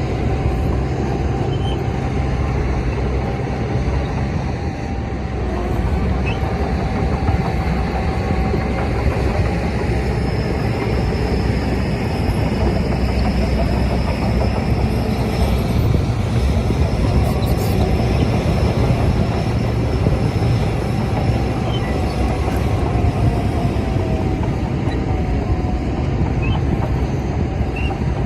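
Shantui DH17C crawler bulldozer working: its diesel engine runs steadily under load with the clatter of its steel tracks, and a thin steady whine sits over the engine throughout.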